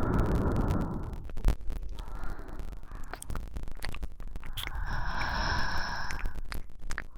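A woman breathing slowly and close to the microphone, in a few long breaths: one fading about a second in, another around the middle, and a stronger one near the end. Small clicks are heard between them.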